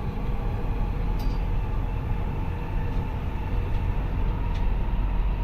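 Nuremberg U-Bahn train running between stations, heard from inside the car: a steady low rumble of wheels on track with a faint steady whine.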